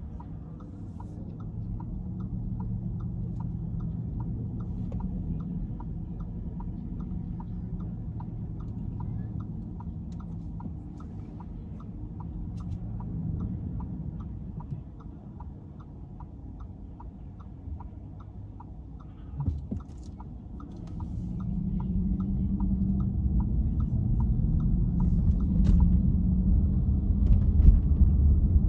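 Car interior: low engine and road rumble with a car's turn-signal indicator relay clicking steadily, about two clicks a second. The rumble swells about three quarters of the way in as the car speeds up.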